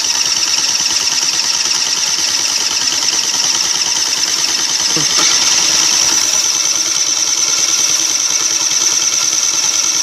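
Peugeot Trekker 50cc two-stroke scooter engine running steadily just after a cold start: a fast, high-pitched buzz that rises slightly in level about five seconds in.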